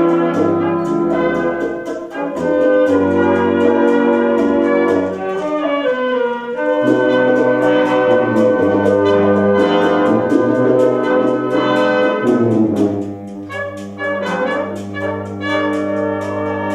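Military brass band playing a lively piece, led by trumpets and trombones over sustained low brass, with a steady beat of percussion strikes.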